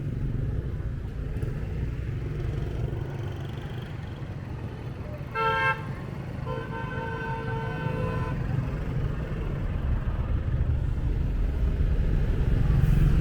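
Steady engine and road rumble from a motorbike ride, with a short, loud horn toot about five seconds in, followed by a second, quieter horn at a different pitch held for about two seconds.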